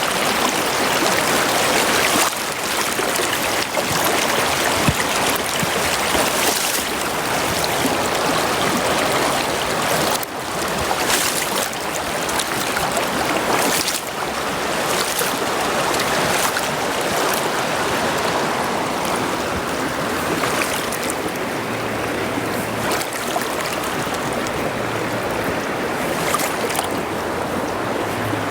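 Running stream water: a steady, even rushing.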